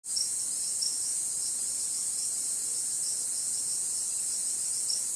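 Rainforest insect chorus, crickets or katydids: a dense, steady high-pitched hiss with a pulsing chirp about three times a second on top. It starts abruptly at the beginning.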